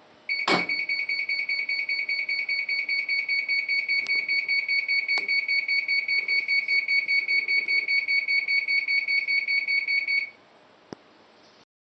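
SHARP ES-FG75 washing machine's error alarm: a high-pitched electronic beep, rapidly pulsing, sounding for about ten seconds and then stopping. The alarm signals a fault error on the machine. A sharp click comes just as it starts.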